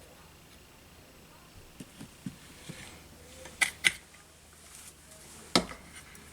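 Small tools and parts handled on a workbench during a drone frame repair: a few light clicks, then two sharp clicks in quick succession past the middle and another sharp click near the end, over a faint steady hum.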